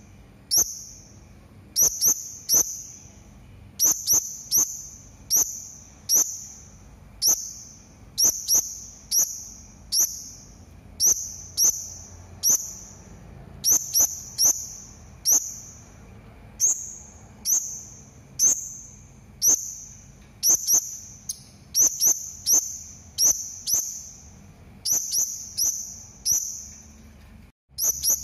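Serindit (hanging parrot) giving short, sharp, high-pitched calls over and over, about two a second, often in quick pairs or threes.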